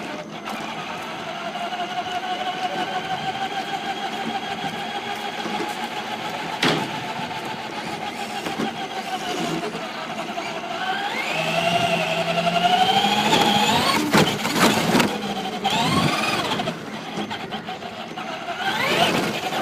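Electric motor whine of a Traxxas Slash Raptor 2WD RC truck, held steady for about ten seconds, then rising and falling in pitch with the throttle. A few sharp knocks cut in, once about seven seconds in and several more around fourteen to sixteen seconds.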